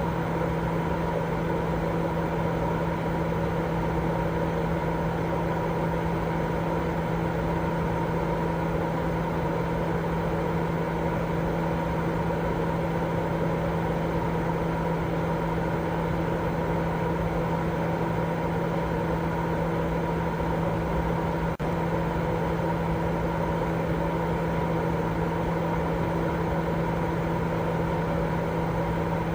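Steady sleep 'white noise': a constant rushing noise with a steady low hum under it, unchanging except for a momentary dip about 21 seconds in.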